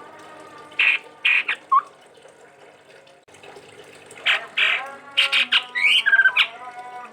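Chestnut-rumped babbler (tepus tunggir merah) calling: a few short harsh notes about a second in, then a longer run of harsh chattering notes mixed with short whistles from about four seconds in.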